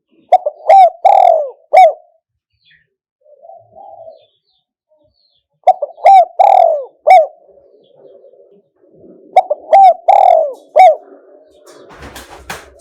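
Spotted dove cooing: three phrases of a few short coos each, the longest note sliding down in pitch, about four seconds apart, with a faint soft coo between the first two. A brief rustling noise near the end.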